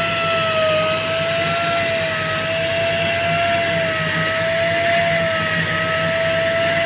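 Heavy machinery running steadily, with a high, slightly wavering whine over a constant hiss.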